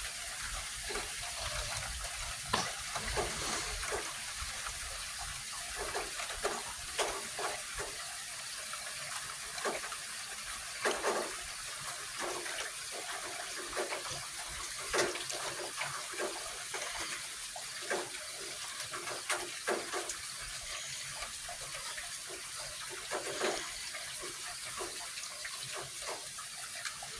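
Light rain falling, a steady hiss with irregular close drips and patters.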